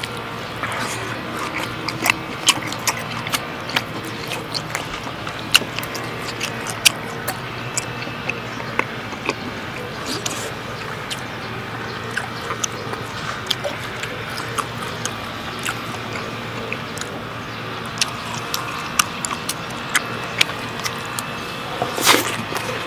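Close-miked chewing of steak: many sharp wet mouth clicks and smacks over a steady hiss, with a louder smack near the end.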